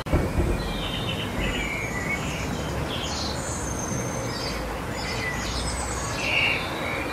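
Small songbirds chirping and singing in repeated short phrases over a steady low outdoor background noise, with a brief low bump right at the start.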